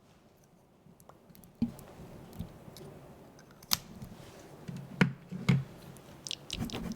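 A few sharp clicks and taps, the first about a second and a half in and the loudest near the end, over a faint low hum.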